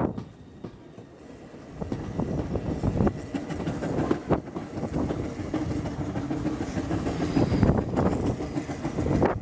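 GWR steam railmotor No. 93 running along the track, heard from a carriage window: a continuous rumble with irregular clattering knocks from the wheels over the rails. It is quieter for the first second or two, then louder.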